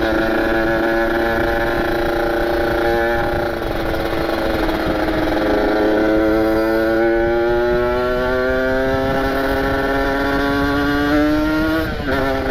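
Ported Kawasaki Ninja RR two-stroke engine running at speed. Its pitch holds, dips a little about three seconds in, then climbs slowly as the bike accelerates and drops sharply near the end, over a steady rush of wind and road noise.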